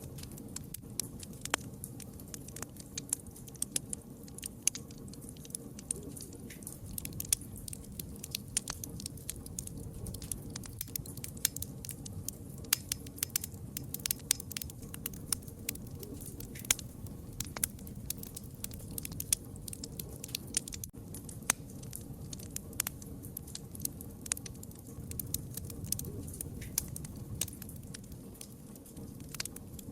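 Campfire crackling, with frequent irregular sharp pops and snaps over a low steady rumble of burning.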